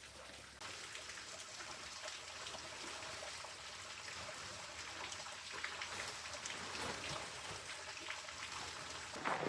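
Steady patter of rain, an even hiss with scattered drips and ticks, coming in abruptly about half a second in, with a louder tap near the end.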